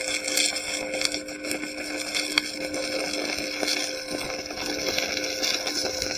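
Stick-welding arc burning on an E6013 electrode: a steady crackling sizzle with scattered sharp pops.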